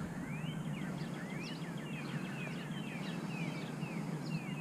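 Small birds chirping, a steady run of quick rising and falling notes, over a steady low hum.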